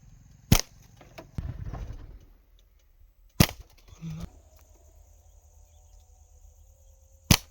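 Three sharp slingshot shots, each a single loud snap, about three and four seconds apart, with duller low rustles between them.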